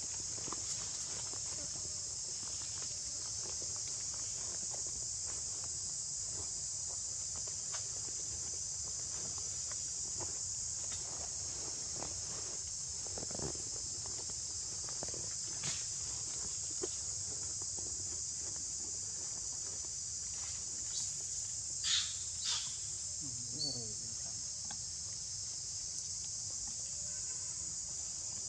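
A steady, high-pitched chorus of insects, with scattered faint clicks and rustles and a few short, sharp sounds in quick succession a little past three-quarters of the way through.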